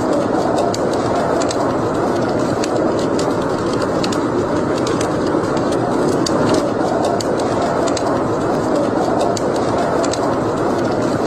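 Wood fire burning in a fireplace: a steady low rushing of the flames with frequent small, sharp crackles and pops scattered throughout.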